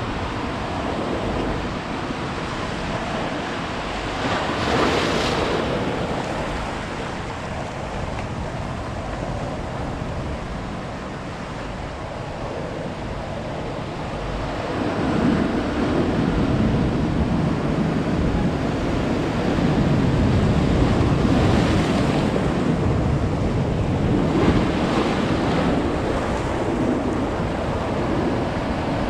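Ocean surf breaking and washing up on a beach, a steady rush that swells louder about five seconds in and again through the second half, with wind buffeting the microphone.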